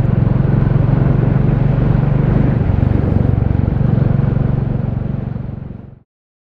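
Royal Enfield Classic 350's single-cylinder engine running steadily with an even pulsing beat. It fades slightly and then cuts off abruptly about six seconds in.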